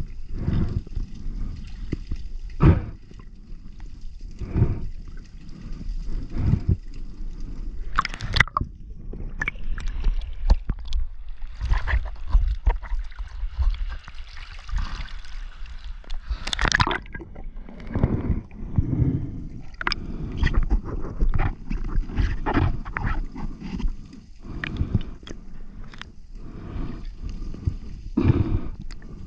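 Water gurgling and sloshing around an action camera, with irregular knocks and splashy bumps scattered throughout.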